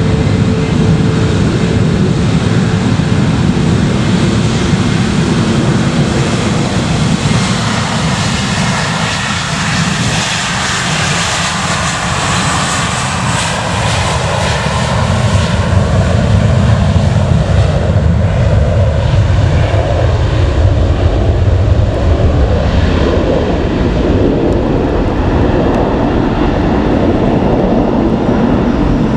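Jet airliner's engines running loud and steady, a heavy rush of engine noise that grows deeper and louder about two-thirds of the way through.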